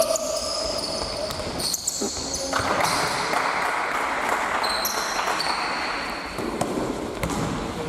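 Basketball game sounds on an indoor court: the ball bouncing in dribbles, with sneakers squeaking on the floor in short high squeals.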